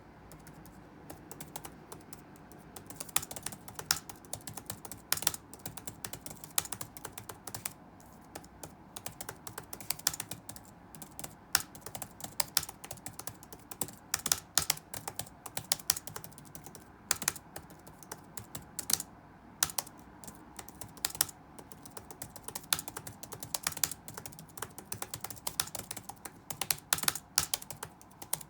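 Computer keyboard being touch-typed: irregular runs of key clicks with short pauses between bursts, over a faint steady background hum.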